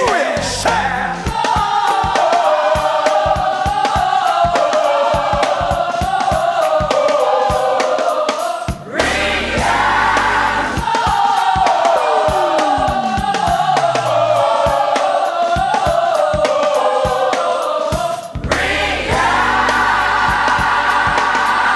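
Choir singing a gospel-style song over instrumental accompaniment with a steady beat, in long phrases with short breaks between them.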